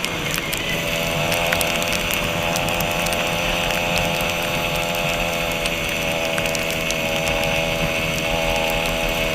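Motorcycle engine running at a steady speed, with a light shift in pitch about halfway through and scattered sharp ticks over it.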